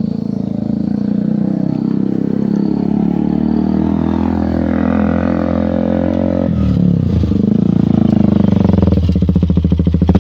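Motorcycle engine under way as the rider pulls off, its note rising and falling through the gears. About six and a half seconds in the pitch drops and climbs again at a gear change, and near the end the engine revs up with a fast pulsing beat.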